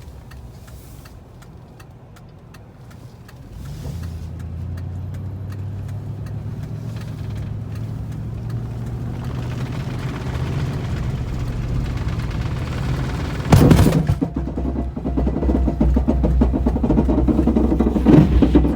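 A car engine starting about four seconds in and running with a steady low hum that slowly grows louder, then revved sharply about two-thirds of the way through and running rougher after that.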